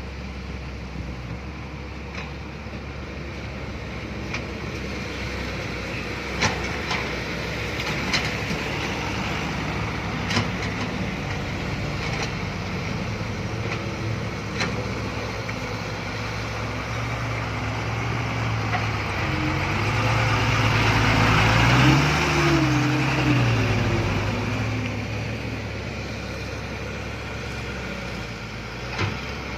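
Heavy dump truck engine running steadily, revving up and back down about two-thirds of the way through, with a few sharp clicks or knocks along the way.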